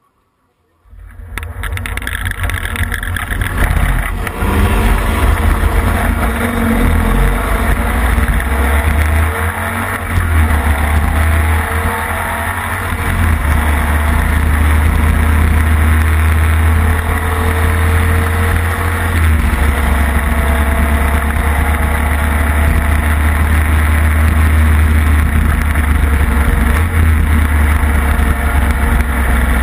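Classic racing sidecar outfit's motorcycle engine heard from on board, coming in suddenly about a second in and then running hard under load down the straight, its deep note rising and stepping a few times, over a constant rush of wind noise.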